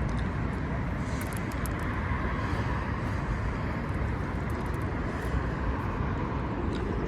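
Steady background road traffic noise, with no single engine standing out.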